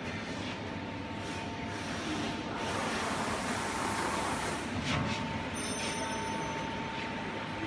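CNC punching machine running: a steady machine hum with a thin constant whine, and a few irregular knocks, the clearest about five seconds in.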